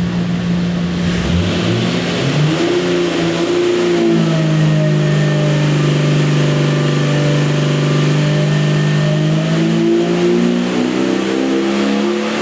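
Jeep 4.6 stroker inline-six engine running on an engine dyno under load. The revs climb in the first couple of seconds, hold nearly steady for several seconds, then rise again near the end.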